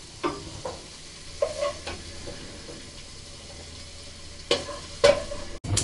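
Diced speck sizzling gently in a non-stick frying pan while a wooden spoon scrapes against the pan in a few short strokes, scooping out the browned pieces; the loudest strokes come near the end.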